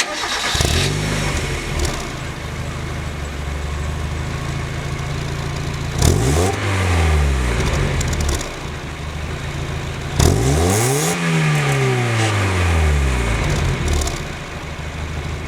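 Mazda Miata's four-cylinder engine idling through its old, rusty original exhaust and revved twice, the pitch rising and falling back to idle each time.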